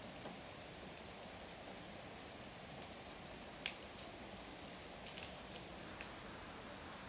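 Rain falling faintly and steadily, with a few scattered sharp ticks of drops close by, the loudest a little past halfway through.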